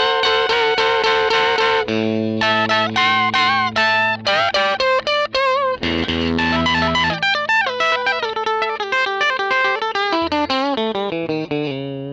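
Electric guitar with single-coil pickups played through an original 1957 Fender Vibrolux tweed amp and its original 10-inch Jensen speaker: a run of picked single notes, chords and bent notes that trails off in fading notes near the end.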